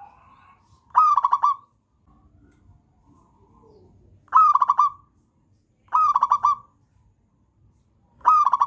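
Zebra dove singing: four short cooing phrases a second or two apart, each a slurred opening note followed by a quick run of about three notes, with the last phrase still going at the end.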